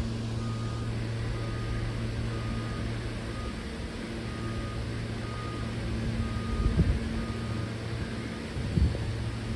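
New York City Subway M train running: a steady low electric hum and rumble, with a couple of short low thumps near the end.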